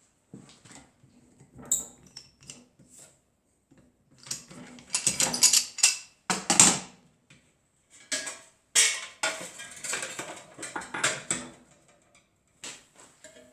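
Irregular metallic scraping and clinking from hand work on a metal plate, in uneven bursts with short pauses between them.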